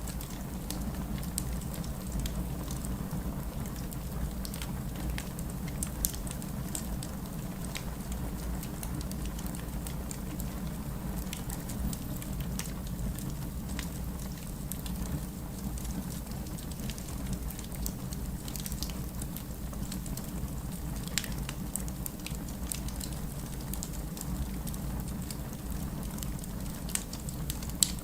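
Steady rain falling with a low, even rumble, mixed with a fireplace crackling in scattered small pops and snaps, a few sharper ones standing out.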